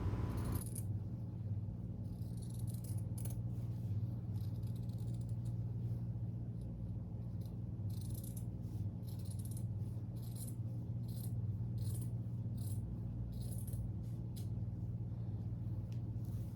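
Scissors snipping and cutting fabric in short, irregular strokes over a steady low hum.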